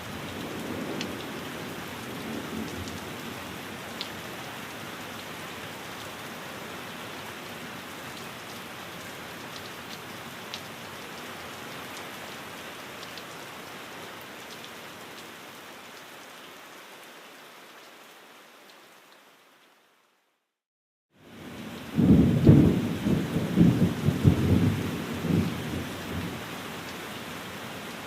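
Steady rain falling, with a low rumble of thunder near the start. About two-thirds of the way through the rain fades out to a second or so of dead silence. It then comes back with a loud, rolling rumble of thunder lasting several seconds before easing to steady rain.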